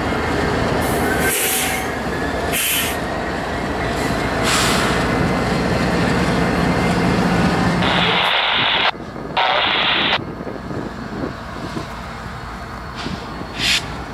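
Freight train passing close by: the steady rumble of rolling autorack cars with a mid-train diesel locomotive's engine. About eight seconds in the sound changes abruptly to a quieter diesel locomotive approaching, with two short bursts of hissing noise.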